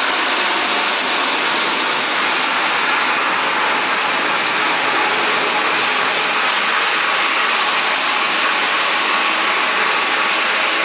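Motor of a carpet-shampooing machine running steadily with a loud, even rushing noise.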